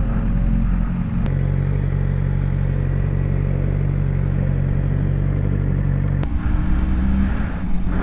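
Sport motorcycle engine running at low, steady revs while riding slowly away from a stop. The engine note changes about six seconds in as the bike eases off.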